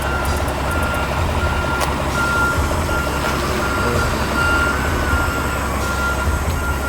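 Reversing alarm beeping steadily, about one beep a second, over the low rumble of a truck engine idling.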